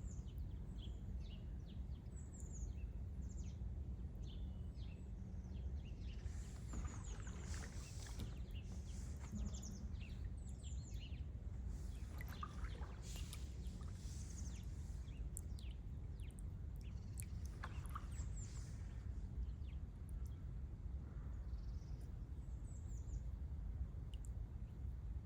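Small birds chirping and calling again and again over a steady low rumble, with a few brief louder rustles or splashes.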